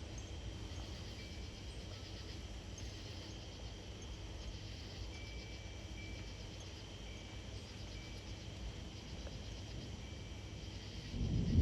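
A steady insect chorus of chirping and trilling over a low wind rumble. Near the end a loud, low rumble of thunder builds, following a nearby lightning strike.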